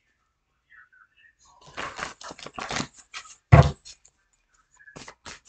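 Tarot cards being shuffled and handled: a rapid run of papery clicks lasting about a second and a half, then a single loud thud as the deck is knocked on the table, and a few light clicks near the end.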